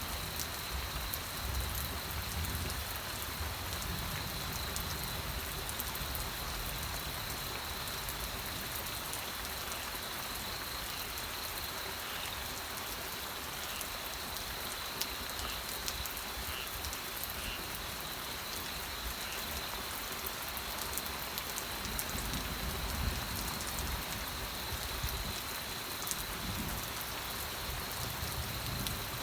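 Steady rain falling on a surface, an even hiss dotted with fine drop ticks, with a low rumble that swells and fades now and then.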